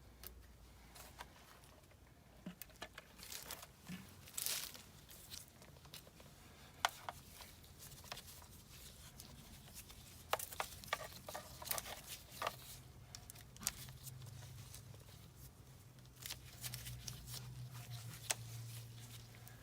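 Faint, scattered clicks, knocks and crinkling rustles from an old condensate pump and its plastic tubing being handled and pulled free, with a faint low hum in the second half.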